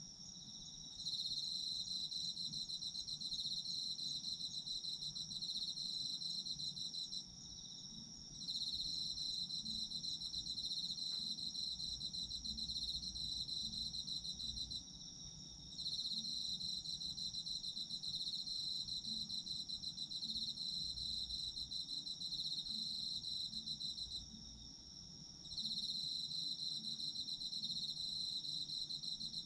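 Autumn insects calling together: one cricket-like insect keeps up an unbroken high, steady trill, while another sings a slightly lower, rapidly pulsed trill in long phrases of about six to nine seconds, each broken off by a pause of about a second.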